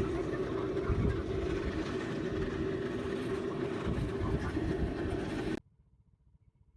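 Samsung Ecobubble top-loading washing machine running its wash, a steady motor hum with water churning and irregular low thumps. It cuts off abruptly about five and a half seconds in.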